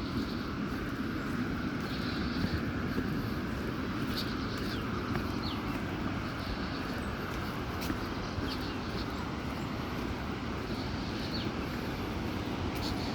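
Steady rushing outdoor background noise with a few faint, short, high chirps now and then.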